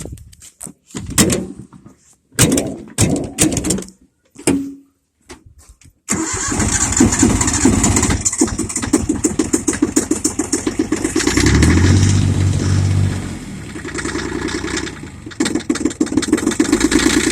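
A few short knocks and clunks, then a Yanmar tractor's diesel engine starts about six seconds in and runs with a steady clatter. Its speed shifts in the middle and again near the end as the idle is being set.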